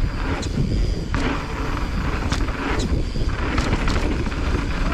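Mountain bike riding fast down a dirt singletrack: a steady rumble of tyres and wind on the microphone, with short rattles and clicks from the bike over the rough ground.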